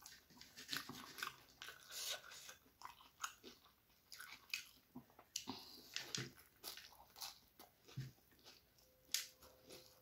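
Close-up crunching and chewing of puffed rice (muri) mixed with chicken curry: a run of small, sharp crunches.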